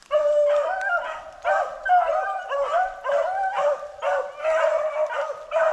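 A pack of beagles baying together on a rabbit's scent trail, several voices overlapping. The pack opens up suddenly and keeps giving tongue without a break, the sign that the hounds have found the track and are running the rabbit.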